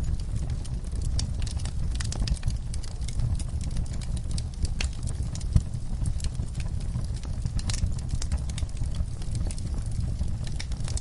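Wood fire in a fireplace crackling: irregular snaps and pops over a low, steady rumble of the flames, with one sharper pop about halfway through.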